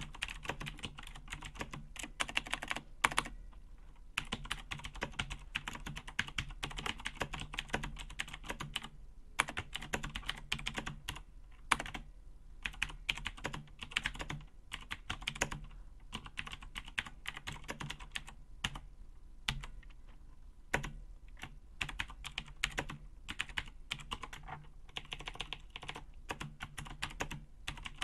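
Razer BlackWidow mechanical keyboard being typed on: rapid runs of sharp key clicks broken by short pauses, over a faint steady low hum.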